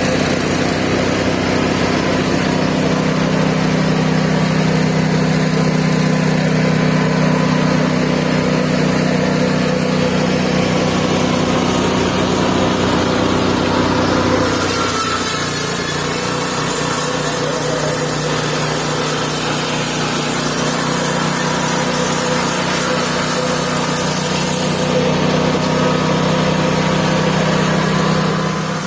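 Mobile sawmill's engine running steadily. About halfway through the sound changes and a high hiss joins for around ten seconds.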